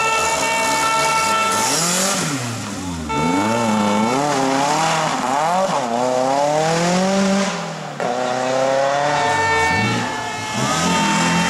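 Historic rally car engine at high revs, its pitch held steady at first, then rising and falling repeatedly on and off the throttle. The sound dips briefly three times before the revs climb again.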